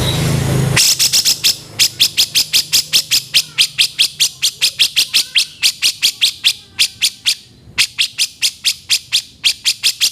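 Grey-cheeked bulbul (cucak jenggot) giving a long run of short, harsh notes in quick succession, about five a second, with a brief break about seven seconds in. The end of an intro music track is heard in the first second.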